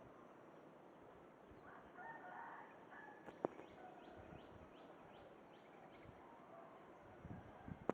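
Faint bird calls: a short run of pitched notes about two seconds in, then a string of quick descending chirps.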